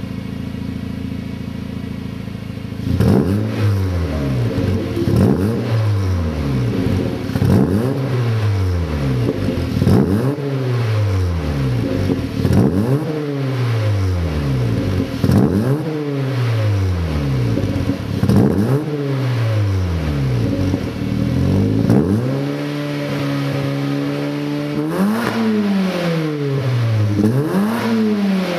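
Honda Fit GE8's 1.5-litre four-cylinder idling through a Noblesse racing bullet-type aftermarket muffler, then blipped about ten times, roughly every two and a half seconds, each rev rising and falling back. Near the end it is held at a steady raised speed for a few seconds before two more blips. It echoes in a garage.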